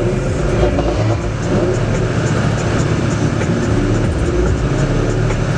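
Car engine running under way, its pitch drifting slightly, over a steady rush of road noise.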